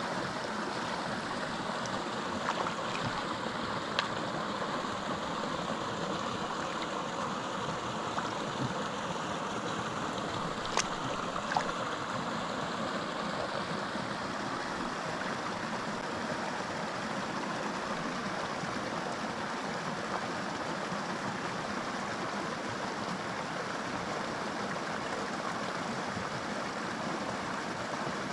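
Small mountain creek flowing steadily over rocks, a constant rushing of water with a few faint brief ticks.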